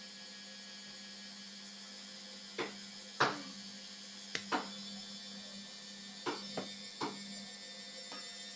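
Indesit washing machine running: a steady hum at one pitch, with about eight irregular sharp knocks and clicks from a couple of seconds in.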